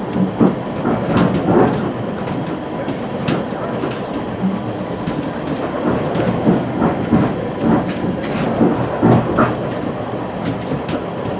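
West Coast Express commuter train rolling along the track: a steady rumble broken by irregular clicks and knocks.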